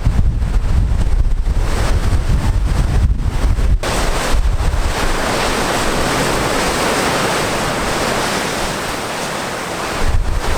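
Ocean surf washing onto a beach, with wind buffeting the microphone as a heavy low rumble for the first few seconds and again near the end.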